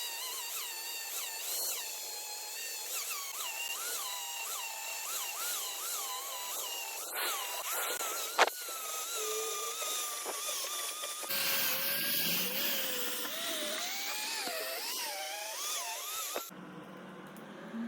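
TIG welding arc on cast iron: a steady hiss with a thin whine that wavers up and down in pitch. The sound changes abruptly twice, about eleven and sixteen seconds in, and there is one sharp click about eight seconds in.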